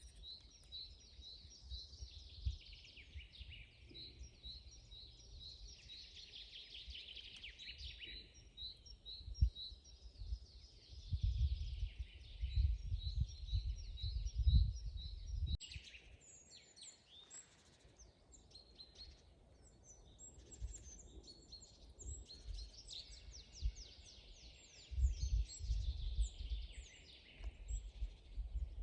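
Several wild birds singing and calling in a forest, overlapping. A short note repeats about twice a second through the first several seconds. Bursts of low rumble come in the middle and again near the end.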